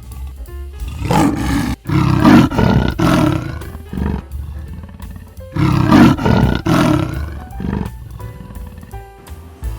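A large wild animal roaring in two bouts of repeated calls, the first starting about a second in and the second about halfway through, over background music.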